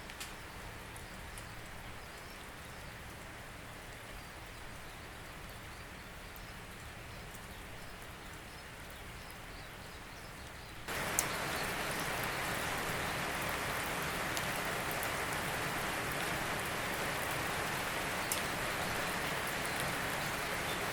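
Steady rain with scattered individual drops ticking, which abruptly becomes louder and heavier about halfway through and stays that way.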